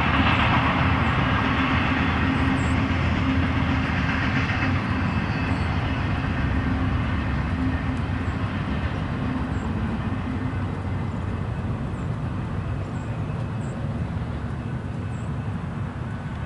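BNSF intermodal freight train cars rolling past on the rails, a steady rumble with rail noise that slowly fades.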